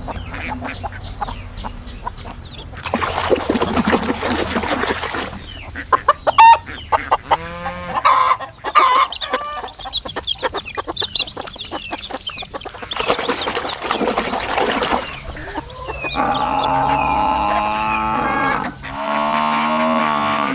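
Recorded chicken calls: a run of short clucks and squawks. Twice the calls are broken by a couple of seconds of rushing noise.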